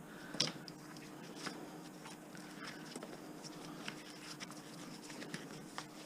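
Light handling noise of stripped wire: scattered faint clicks and taps, the sharpest about half a second in, over a faint steady hum.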